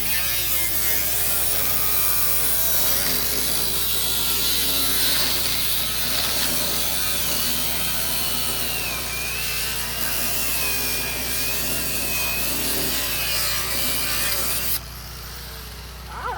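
Electric power saw cutting through plastic on a car, a steady rasping with a wavering motor whine; it cuts off suddenly near the end.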